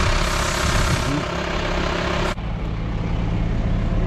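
An engine idling steadily under a loud hiss that cuts off suddenly a little over two seconds in, leaving the idle plainer to hear.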